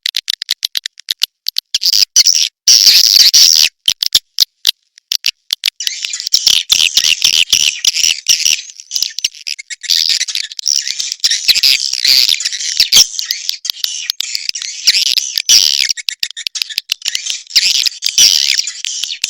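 Swiftlet calls played as a lure sound for swiftlet farming: about six seconds of rapid dry clicking with a short burst of shrill twittering, then dense, continuous high twittering chatter of many swiftlets.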